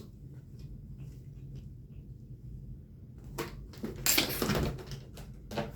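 A cat scuffling and pouncing on a toy: quiet at first, then a run of rustling, scrabbling clatter from about three seconds in, loudest a second later.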